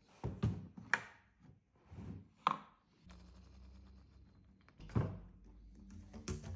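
A few hard knocks and clunks: a cluster of them early on, one sharp knock about two and a half seconds in and another about five seconds in, with a faint steady hum underneath from about halfway.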